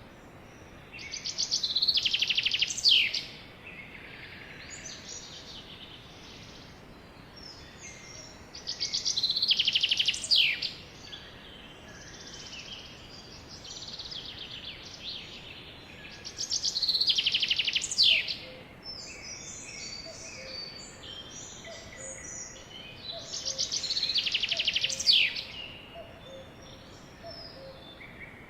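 A songbird singing four loud song phrases about every seven seconds. Each is a fast trill that swells and ends in quick downward sweeps, with softer chirps between.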